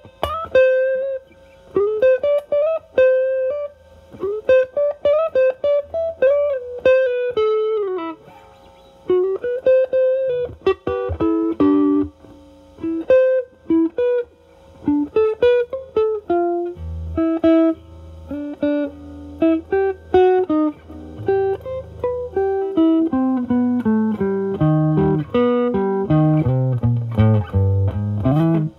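Electric guitar, a Stratocaster played through a Ceriatone Centura (Klon Centaur clone) overdrive pedal into a Marshall Valvestate's drive channel, with the overdrive cleaned up. It plays improvised blues lead lines of bent, vibrato-laden single notes, then a run that descends into the low strings near the end.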